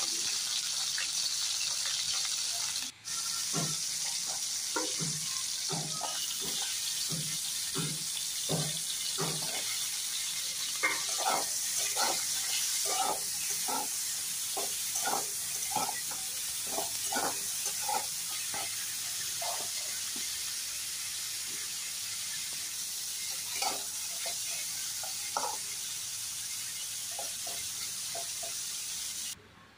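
Vegetables frying in hot oil in a kadai, with a steady sizzle. A spatula stirs them, scraping and knocking against the pan in short, irregular strokes, thickest through the middle.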